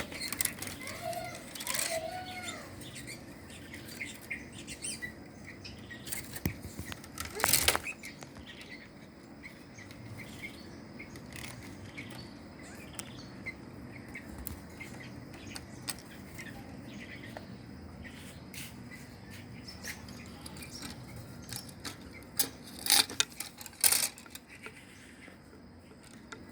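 Birds chirping with short calls, and a few loud brief bursts of wing flapping, one about a quarter of the way in and two close together near the end.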